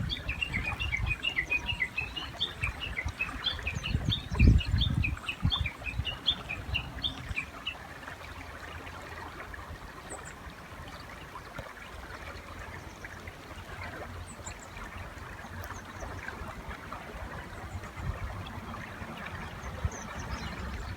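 Japanese bush warbler giving its rapid run of short repeated notes (the 'tani-watari' call) for about seven seconds, over the steady rush of a river. A low thud comes about four and a half seconds in; after the run only the river and a few faint, high chirps remain.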